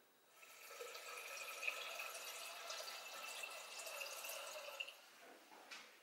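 Kitchen tap running into a metal bowl held under it, with a steady splashing wash that stops about five seconds in.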